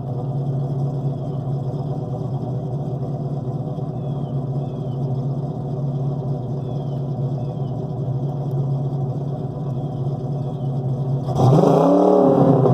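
Pontiac 389 V8 idling steadily through a dual exhaust with headers, X-pipe and chambered mufflers. About eleven seconds in it is revved once: it gets suddenly louder, and the pitch rises and falls back.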